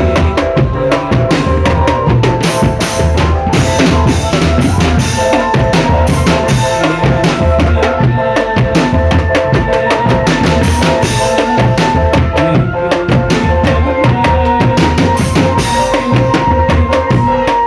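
Marching drum band playing: rapid snare drum strokes and heavy bass drum beats, with held melody notes sounding over the percussion.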